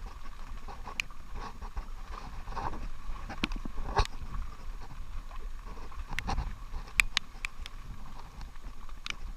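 A small boat rocking at sea: irregular sharp knocks and clicks, loudest about four and seven seconds in, over a low rumble of wind and water.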